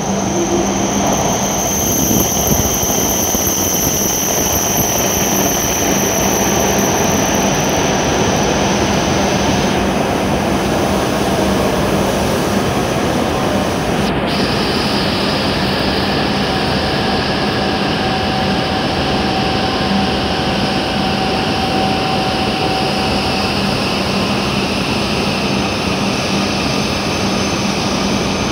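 W7 series Shinkansen train pulling into the platform and slowing as it passes: a loud, steady rush of wheels and running gear, with a high whine over the first several seconds.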